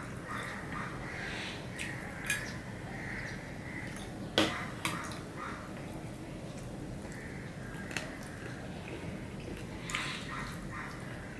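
Close-up eating sounds: wet chewing and lip smacks from a man eating rice and fish curry with his fingers, with a few sharp mouth clicks.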